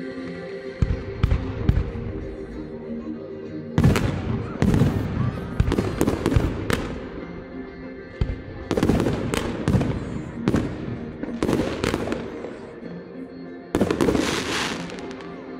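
Fireworks exploding in repeated loud bangs and dense volleys of cracks, over music playing from a sound system.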